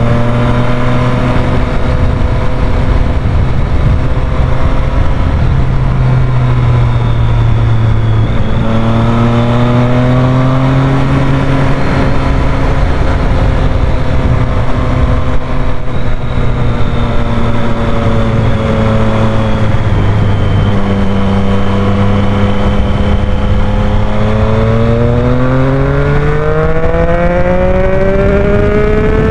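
Triumph Street Triple 765's three-cylinder engine pulling the bike along, with the engine pitch holding steady, rising about a third of the way in, dropping back about two-thirds in, then climbing steeply under acceleration near the end. A steady rush of wind noise runs underneath.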